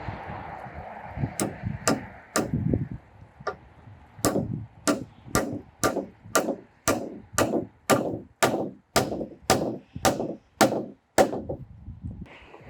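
Hammer blows, three at first and then a steady run of about fourteen at roughly two a second, as when nailing roof timbers.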